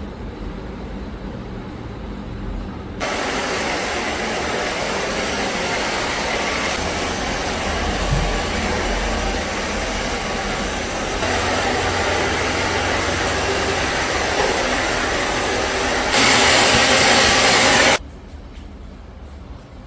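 A small electric appliance motor running with a loud, steady noise, switched on about three seconds in, louder near the end and cutting off suddenly.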